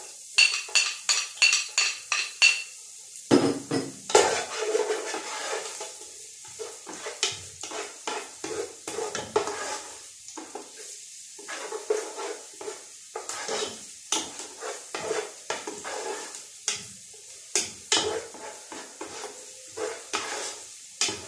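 Chopped onion sizzling in olive oil in a cooking pot while a spoon stirs it, with irregular scrapes and knocks of the utensil against the pot. It opens with a quick run of ringing clinks in the first couple of seconds.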